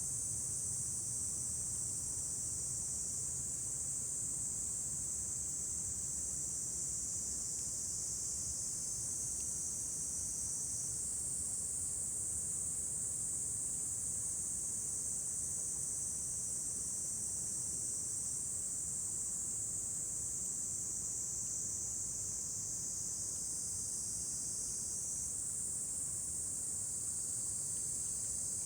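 A steady, unbroken chorus of crickets or similar insects trilling high.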